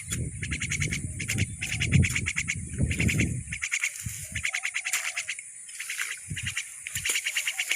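Insects trilling in rapid, even pulses over a steady high-pitched whine. A low rumble runs through the first three and a half seconds and then stops, and a few short, lower calls come in between.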